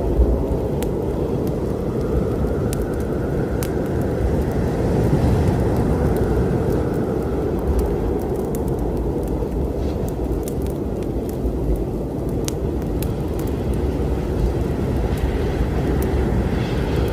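Steady low rumble of a storm, with scattered sharp crackles and pops of a wood fire over it.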